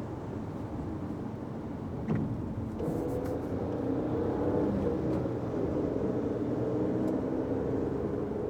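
Fiat 500X driving, with steady road noise. A short knock comes about two seconds in, and from about three seconds in the engine hum rises as the car accelerates, then holds steady.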